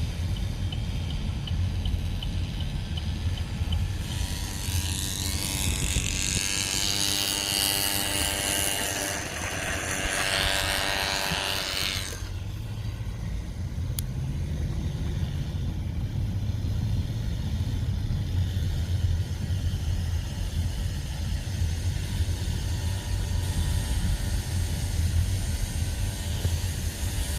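Coleman minibike's small single-cylinder engine running steadily under way. From about four to twelve seconds in, a louder rushing noise with a rising tone rides over it.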